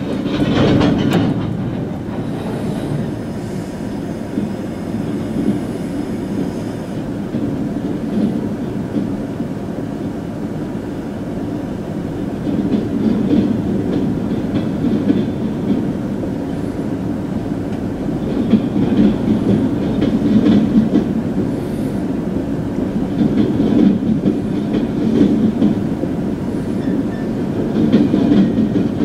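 Freight boxcars rolling past a grade crossing: a steady rumble of steel wheels on the rails with clickety-clack, rising and falling as car after car goes by.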